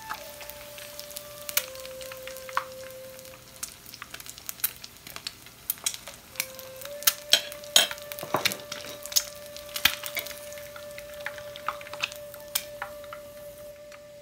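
Eggs deep-frying in plenty of hot oil in a nonstick frying pan: a steady sizzle with many sharp crackles and pops of spattering oil.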